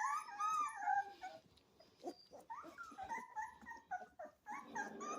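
Young Rottweiler puppies squealing and whimpering in short, high cries, a cluster of them in the first second and a half, then a brief lull and scattered cries again.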